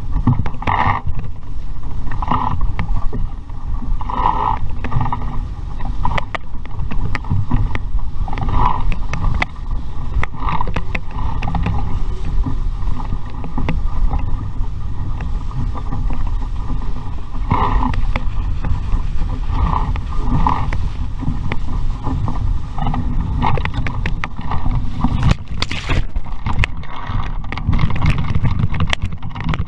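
Wind buffeting the microphone over the rushing and splashing of water past a sailing dinghy under way in a stiff breeze. Short higher-pitched sounds recur every second or two.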